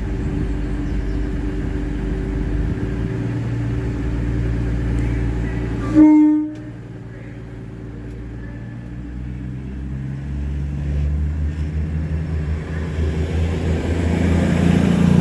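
Class 221 Voyager diesel multiple units running as they pull out of the station, with a steady low engine rumble. About six seconds in, a short single train horn toot, after which it goes quieter before a low diesel engine sound builds again near the end.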